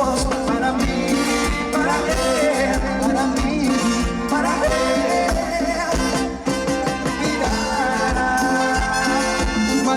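Latin dance band playing live with a steady beat, the melody carried by instruments between sung verses.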